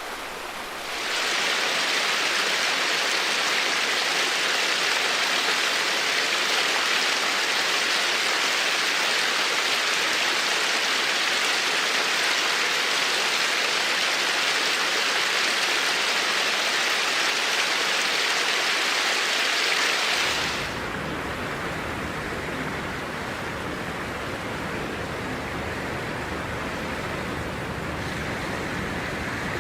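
Steady rushing noise of flowing water. About twenty seconds in it drops to a quieter, deeper rush.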